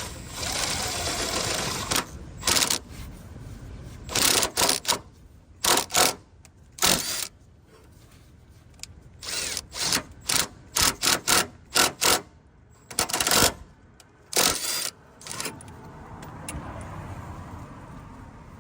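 Impact driver hammering in a string of short bursts, with a longer run of about two seconds at the start and many sub-second blips after it. It is turning the bolt of a pipe expander with a 19 mm socket to spread a dented exhaust tip back into shape.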